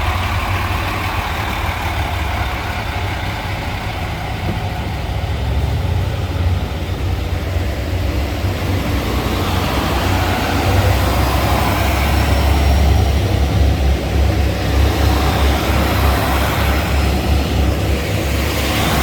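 KiHa 281 series diesel railcar running, its diesel engines and running gear giving a steady low rumble with noise above it. The sound grows slowly louder, with faint rising whines higher up.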